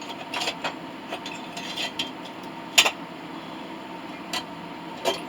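Light metal clinks and knocks, a handful of separate strikes with the loudest just under three seconds in, over a steady mechanical hum.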